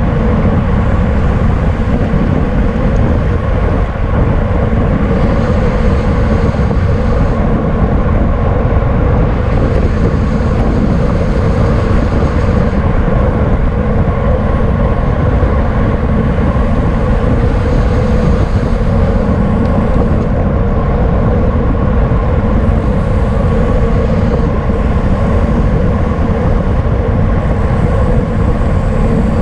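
Steady, loud wind rush and road rumble on a camera riding along with a racing bicycle at speed, with a constant low rumble and a faint steady hum.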